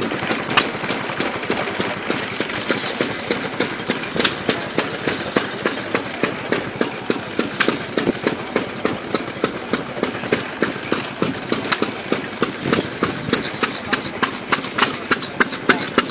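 Vintage engine running slowly with a regular, sharp exhaust beat, about three beats a second.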